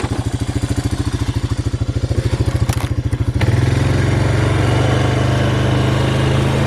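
A small engine running with a fast, even pulse. About three and a half seconds in it picks up, running louder and steadier.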